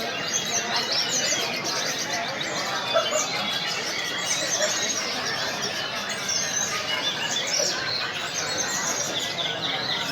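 Many caged songbirds singing at once in a contest, a dense chorus of overlapping chirps, whistles and short trills, with a murmur of crowd voices underneath.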